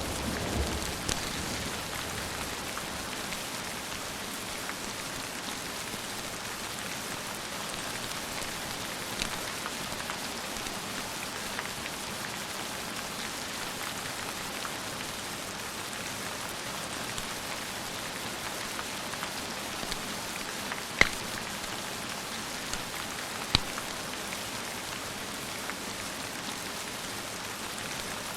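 Steady rain falling, with the tail of a thunder rumble dying away at the start and a few sharp pops scattered through, the two loudest about three-quarters of the way in.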